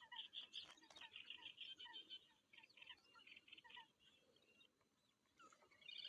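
Small birds chirping faintly in quick runs of short notes, busiest in the first three seconds and thinning out after that.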